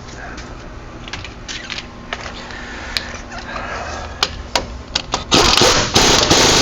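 Metal parts clinking and scraping as brake parts are fitted, then about five seconds in a power wrench runs loudly in two bursts, tightening the brake caliper bolts.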